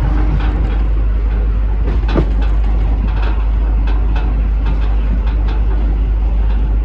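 Train in motion on the track: a steady low rumble with irregular clicks and rattles, and a louder knock about two seconds in.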